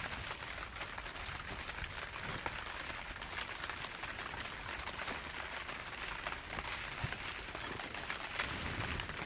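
Steady heavy rain: an even hiss dotted with the patter of many individual drops.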